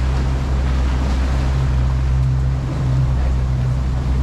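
Motorboat running steadily under way, a constant low engine drone with rushing wind and water noise over it.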